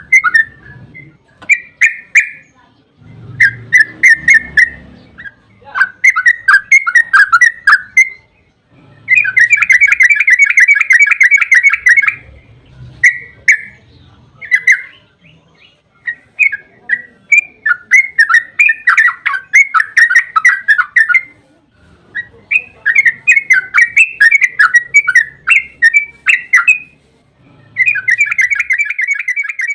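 Yellow-vented bulbul (trucukan) singing loud, repeated phrases of fast, bubbling notes with short pauses between them. Two long, rapid rolling runs come, one about ten seconds in and one near the end.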